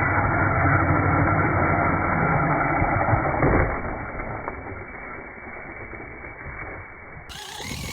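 Radio-controlled truck driving: a steady electric motor whine over drivetrain rumble, a sharp knock about three and a half seconds in, then fainter running.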